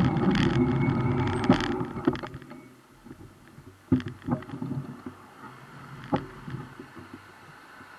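Wind and road rumble on a bike-mounted camera while riding, fading away about two and a half seconds in as the bike slows. A few sharp clicks and knocks follow.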